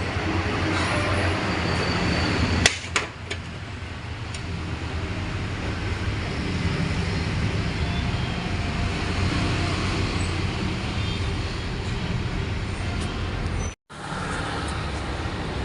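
Steady background rumble of road traffic, with one sharp click about three seconds in and a brief drop-out in the sound near the end.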